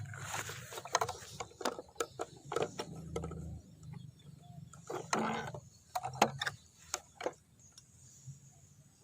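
Irregular sharp clicks and knocks with a brief rustle about five seconds in, thinning out after about seven seconds.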